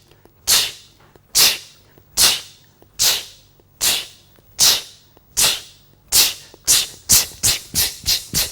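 A person's voice imitating a train with repeated 'ch, ch, ch' sounds, slow at first and speeding up to about three a second, like a steam train gathering speed. This is the 'ch' letter sound of the phonics lesson.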